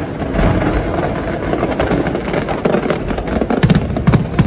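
Fireworks going off in a dense, rapid crackle of many small pops, with several sharp, loud bangs near the end.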